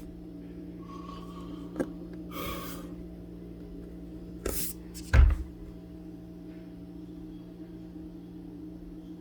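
A steady low hum with a few sharp clicks and knocks: a click about two seconds in, a brief hiss, then two knocks near the middle, the second and loudest with a low thump.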